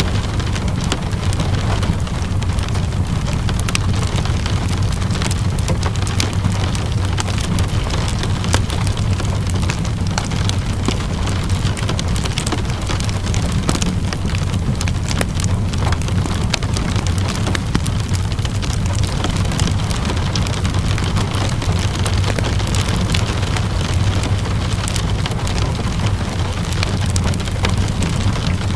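Steady rainfall mixed with a crackling wood fire: a constant hiss and low rumble with frequent sharp crackles and pops scattered throughout.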